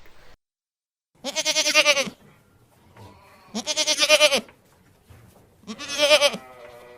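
A big goat bleating three times, about two seconds apart, each bleat a quavering call lasting under a second.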